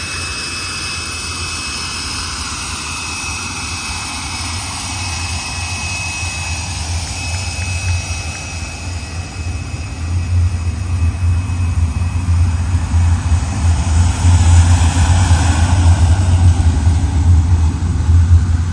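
Jet aircraft engine noise: a steady high whine over a rushing sound. From about ten seconds in it grows louder, with a heavy low rumble.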